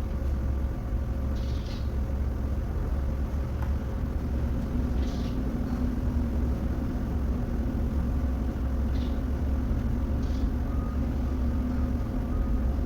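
A machine running steadily with a low rumble and a constant hum, broken by four brief hisses.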